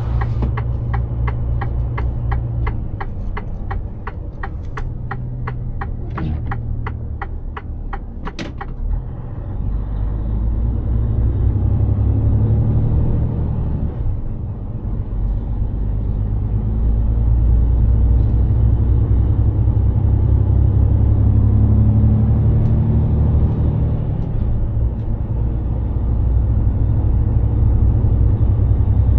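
Mercedes-Benz Actros 2763 truck heard from the cab: a steady ticking, about two and a half times a second, like the turn indicator, runs over the low engine drone and ends with a sharper click about eight seconds in. The engine drone then grows louder, dips briefly and rises again as the truck picks up speed.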